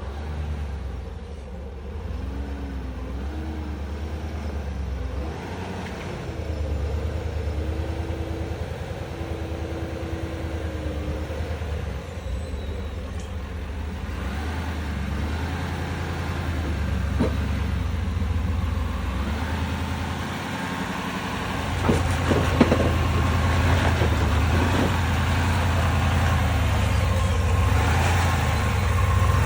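Ford F250 pickup truck's engine running at low throttle while it crawls over rocks, with a wavering whine early on and a few sharp knocks from the chassis or tyres on rock past the middle.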